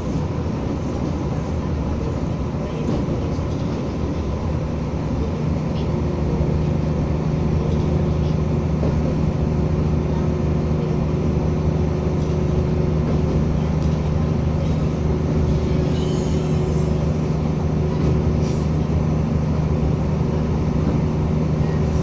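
Materfer diesel railcar running along the line: a steady engine hum with rail running noise, the hum growing a little stronger about five seconds in.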